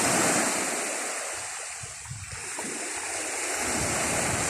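Ocean surf washing in at the shore: a wave breaks just as it begins, its wash fades over about two seconds, then the surf swells again.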